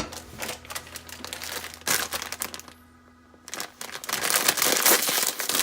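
Crinkling and tearing of plastic instant-noodle sachets, the dried vegetable flakes and soup powder packets, being torn open and handled, in three bursts, the last one louder.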